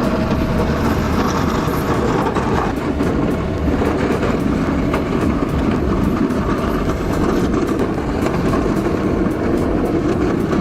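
Snow-clearing machine running hard: a loud, steady mechanical rush that holds at one level throughout.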